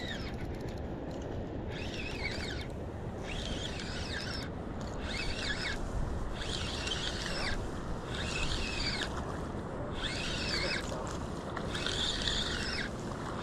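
Spinning reel being cranked in spurts while fighting a hooked speckled trout, a whirring that comes and goes about once a second, over steady wind noise on the microphone.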